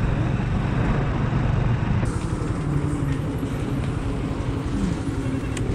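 Hero Glamour 125 cc single-cylinder motorcycle riding steadily in road traffic, its engine running under a constant rush of road noise.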